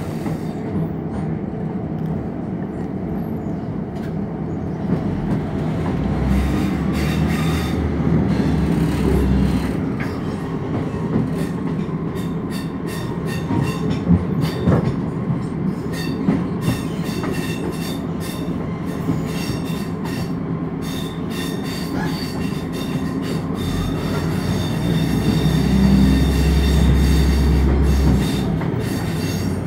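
Inside a Class 150 Sprinter diesel multiple unit running at speed: the steady rumble of its underfloor diesel engines and wheels on the rails, with scattered clicks from the track. A deeper drone swells twice, about six seconds in and again near the end.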